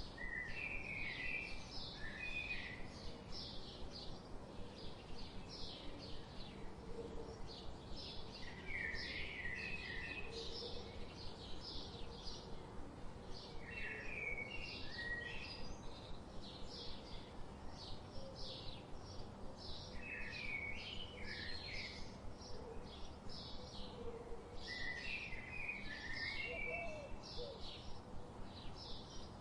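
Songbirds chirping: a fast, continuous series of short high chirps, with a lower warbled phrase from another bird repeating every five or six seconds.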